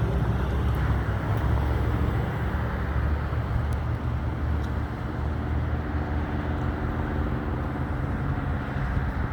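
A motor vehicle's engine rumbling steadily, with a faint pitched hum coming through about halfway in, and wind buffeting the microphone.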